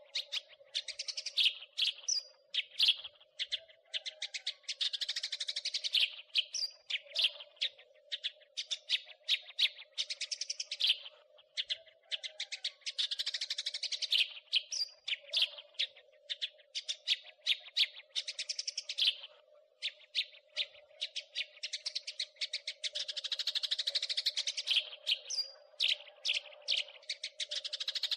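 House sparrows chattering: rapid, dense runs of sharp, high chirps that break off briefly every few seconds and start again. A faint steady hum sits underneath.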